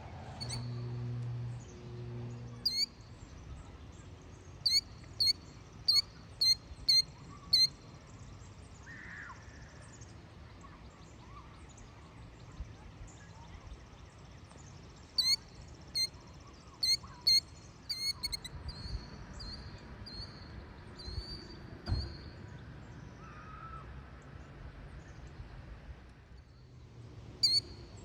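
Killdeer calling: short shrill notes, each dropping in pitch, repeated in two runs of six or seven calls with a faster string of notes between them. A brief low hum sounds in the first two seconds.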